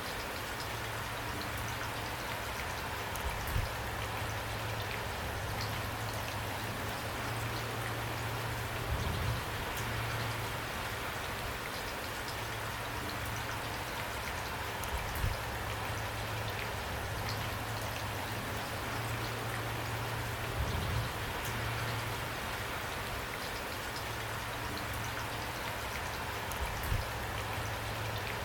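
Steady rain falling, an even hiss with a low rumble beneath it. Brief louder low thumps come about every six seconds.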